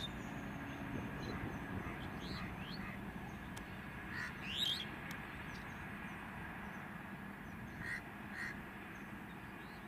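Distant passenger train running past with a steady low rumble that slowly fades, while birds give short chirping calls over it, one louder about halfway through.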